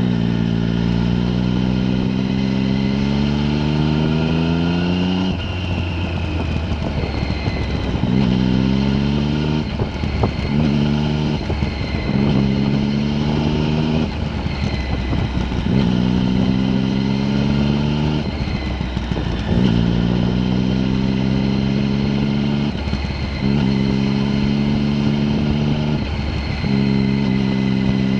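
A vehicle's engine under way, repeatedly pulling with its pitch rising, then dropping back abruptly as the driver lifts off or changes gear, about eight times over.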